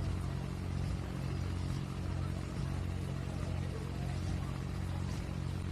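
Pro stock pulling tractor's turbocharged diesel engine idling steadily, an even low hum.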